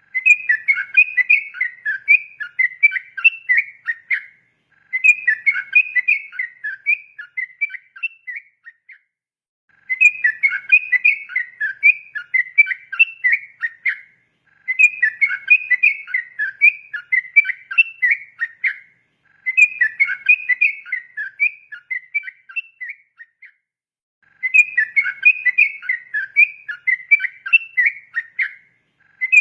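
Yellow-vented bulbul (trucukan) singing its fast, continuous chattering song in about six phrases, each about four seconds long, with a short pause between them.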